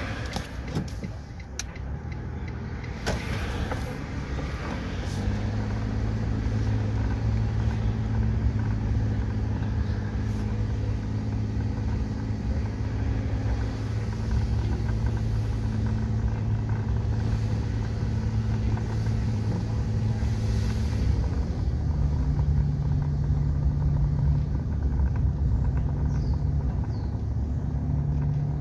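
Mitsubishi eK Custom kei car's 660 cc three-cylinder engine running steadily while driving, heard from inside the cabin along with tyre and road rumble. A few knocks come near the start, and the engine hum steps up in pitch about three quarters of the way through.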